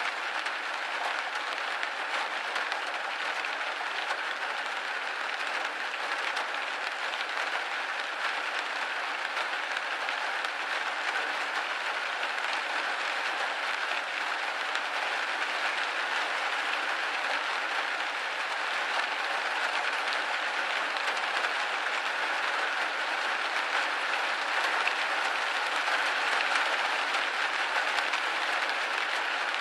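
Steady rain pattering on a window pane, a dense even patter with no low rumble, growing slightly louder in the second half.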